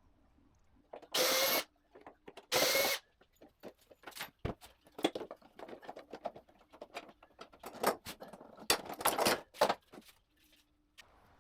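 A sewing machine runs in two short bursts of about half a second each. Then come scattered clicks and rustling as tarp fabric is handled.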